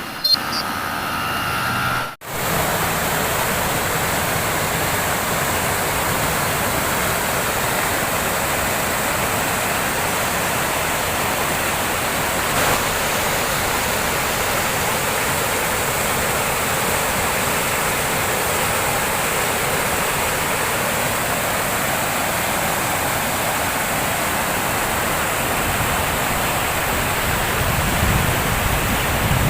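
Water rushing steadily down an overflowing lake's outflow stream. A different, briefer sound cuts off about two seconds in, after which the water noise runs evenly.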